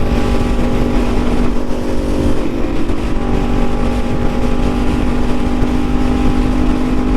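Suzuki GSX-R750's inline-four engine running at a steady, high pitch under way, with a rush of wind noise over it.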